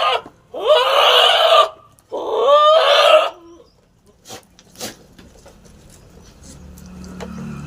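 A goat bleating twice, each bleat about a second long with a wavering, quavering pitch, followed by a few faint clicks.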